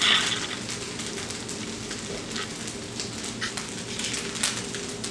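Fried rice sizzling in an oiled pan, a steady crackle with scattered sharper pops.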